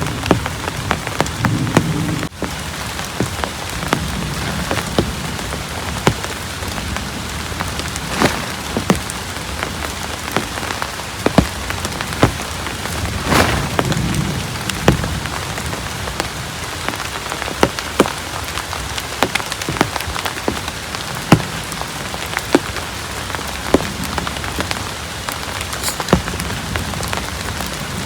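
Heavy rain falling steadily, with frequent sharp taps of large drops striking close by.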